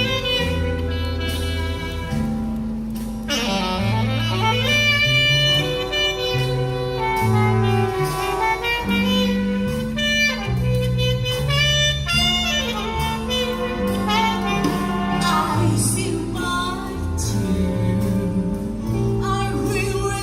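Jazz big band playing an instrumental passage between vocal lines, with saxophones carrying the melody over a bass line that changes note about once a second.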